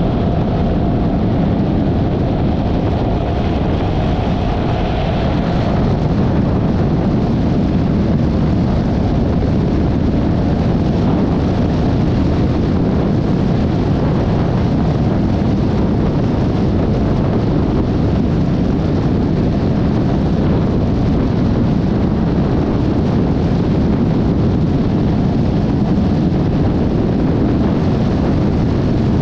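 Steady wind roar on the microphone of a Yamaha XMAX 300 scooter riding at speed, with the scooter's running and road noise underneath. A fainter higher whine fades out about six seconds in.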